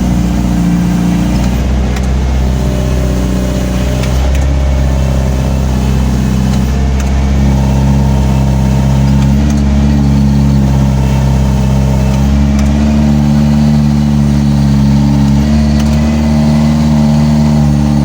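Diesel truck engine with an 'umplung' can-tipped exhaust, held on the exhaust brake while going downhill: a loud, continuous droning exhaust note that shifts pitch in steps a few times.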